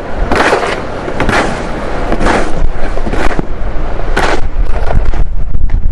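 Snow shovel scraping through snow and across pavement, one long scrape about every second, five times in a row, over a low rumble.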